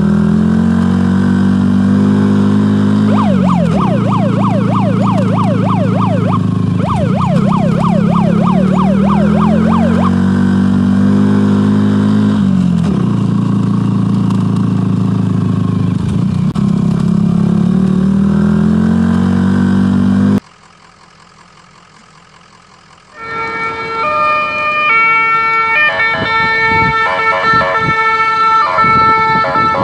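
Police siren sound effect with a slow rising-and-falling wail, switching to a fast yelp for several seconds near the start; it cuts off about twenty seconds in. After a short quieter gap a different sound of steady tones changing in steps begins.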